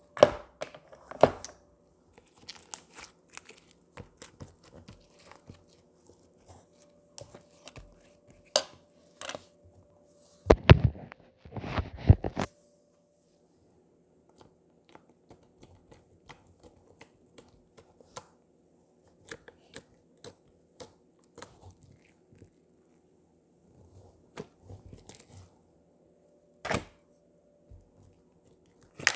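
Slime handled close to the microphone, giving irregular sharp clicks and crackles. A louder burst of crackling comes about ten to twelve seconds in, then a sparse stretch of faint ticks.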